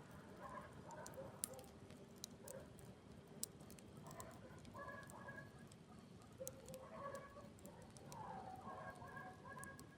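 Faint campfire crackling, with scattered sharp pops and snaps from the burning wood. The loudest pops come about one and a half seconds and three and a half seconds in. Faint, wavering distant calls sound in the background.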